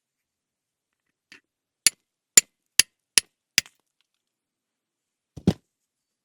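Five sharp, hard knocks in quick, even succession, followed a couple of seconds later by one duller thump.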